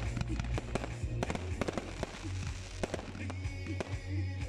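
Aerial firework shells bursting in quick, irregular succession, with sharp bangs and crackling, over music.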